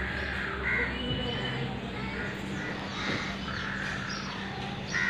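A bird calling over and over, about six short calls in five seconds, over a steady low hum.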